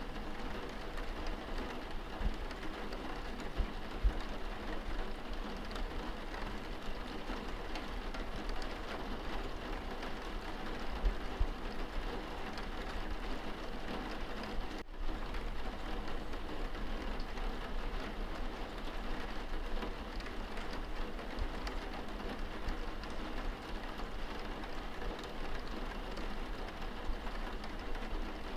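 Steady rain pattering on a window pane, heard from inside the room, with a couple of brief low thuds along the way.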